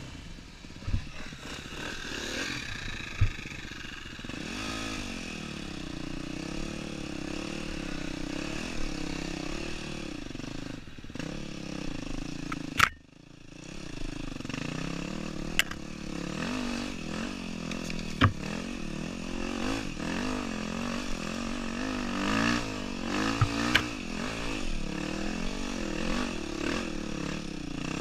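2008 Yamaha WR250F's single-cylinder four-stroke enduro engine running under constantly changing throttle, its revs rising and falling over and over, with sharp knocks now and then. About halfway through the engine note drops away briefly before picking up again.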